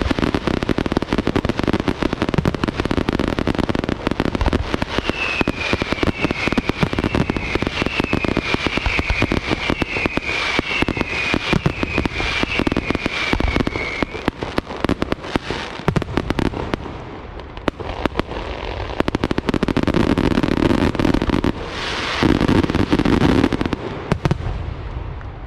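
Aerial fireworks display, a dense run of rapid bangs and crackles. From about five seconds in to about fourteen seconds, a string of short falling whistles rides over the bangs.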